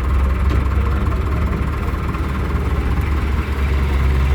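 Heavy diesel engine running steadily with an even, low hum.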